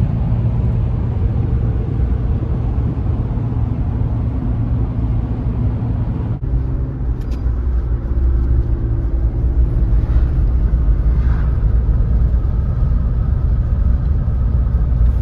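A moving car's steady low road and engine rumble, heard from inside the vehicle.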